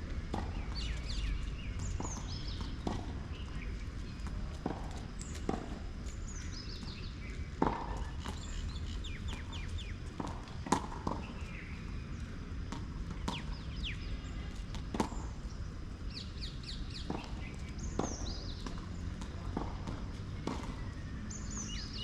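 Birds chirping in short runs of quick falling calls, over a steady low rumble, with scattered sharp knocks, the loudest about 8 and 11 seconds in.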